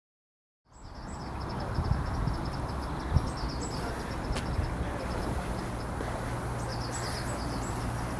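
Outdoor ambience that begins a moment in after silence: a steady low rumble and wash of background noise, with a small songbird's rapid, high-pitched twittering in two spells, near the start and again near the end.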